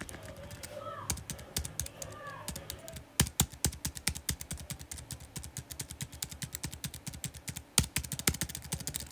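Rapid, irregular clicking of a button being pressed over and over, several presses a second, as someone keeps trying to make it work.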